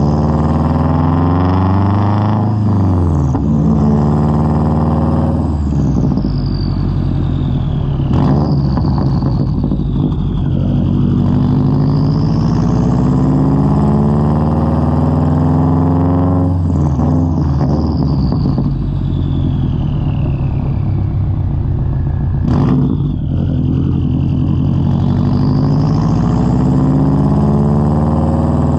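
Subaru WRX turbocharged flat-four running through a straight-pipe exhaust while accelerating, its pitch climbing and then dropping back at each gear change, about four times.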